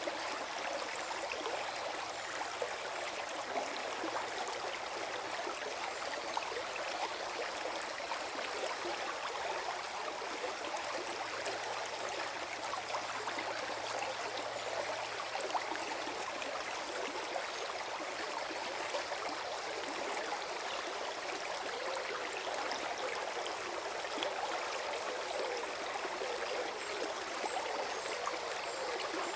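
Small forest stream flowing and gurgling over stones, a steady run of water with many small splashes.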